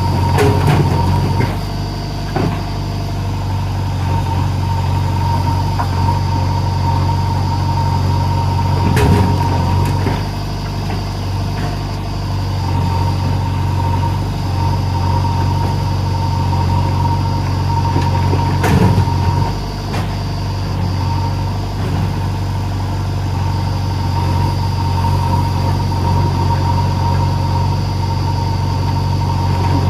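Heavy diesel engine running steadily, with a few brief clunks at intervals of several seconds.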